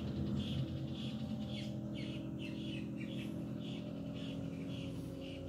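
A bird chirping over and over, short chirps about two a second, over a steady low hum.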